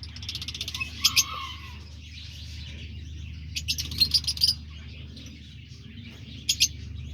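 Small aviary birds chirping in short high bursts, in three clusters: at the start, around the middle and near the end, over a steady low hum.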